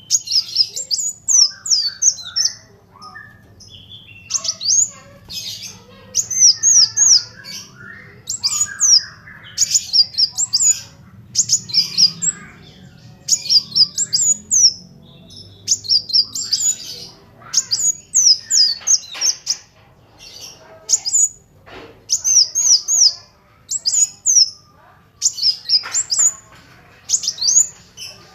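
Kolibri wulung sunbird singing: bursts of quick, high, sharply rising and falling chirps, repeated every second or two, with softer twittering between them.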